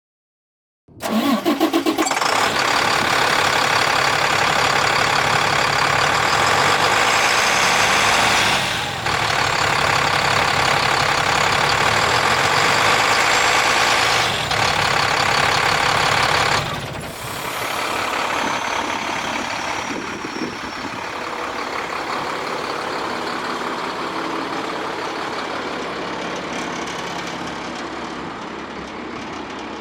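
The diesel engine of a 2007 International 7500 WorkStar hook truck cranks and catches about a second in. It runs loud and steady for about fifteen seconds, with two short dips, then drops to a quieter steady idle.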